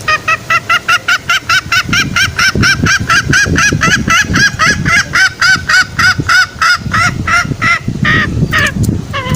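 Green junglefowl calling: a long, rapid series of short arched notes, about four or five a second, breaking into a few longer notes near the end.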